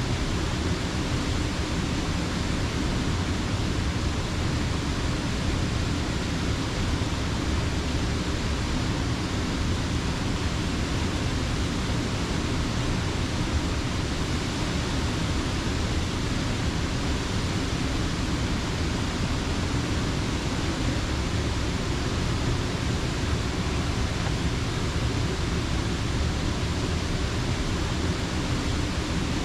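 Rushing creek water falling over rocks or a dam: a steady, even rush with no breaks.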